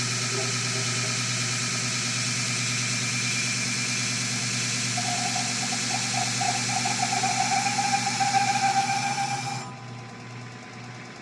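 Fein Grit GX75 belt grinder with a GXC centerless attachment running a Scotch-Brite belt over 1-inch ERW steel pipe on a polishing pass: a steady grinding hiss over a motor hum. A tone comes in about halfway through and grows louder. Near the end the grinding hiss cuts off suddenly, leaving a lower hum.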